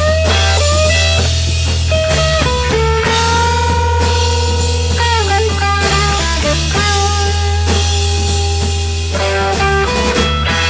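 Live rock band playing an instrumental passage: electric guitar holding and bending notes in a blues-rock style over steady bass and drums.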